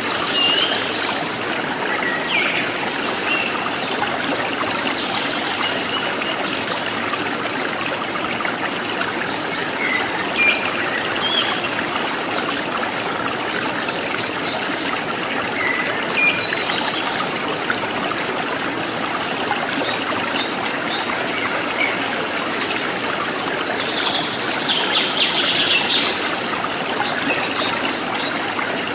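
Forest stream trickling and splashing steadily, with wild birds giving short, high chirps here and there and a quick run of calls near the end.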